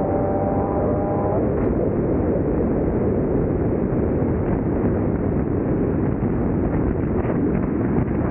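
Car at speed: the engine's pitch climbs under acceleration and stops about a second and a half in, leaving a steady rush of wind and road noise.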